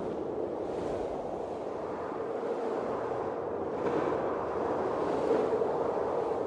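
Blizzard wind blowing steadily, rising in gusts about a second in and again about four seconds in.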